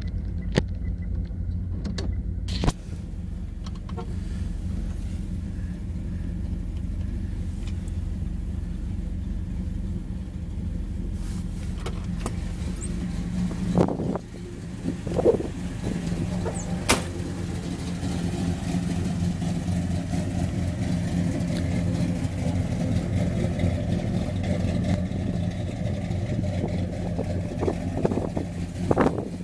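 1967 Plymouth Belvedere II's engine running steadily, with a few short sharp clicks over it.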